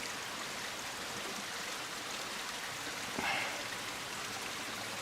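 Steady rushing of a small stream's flowing water, with a brief faint noise about three seconds in.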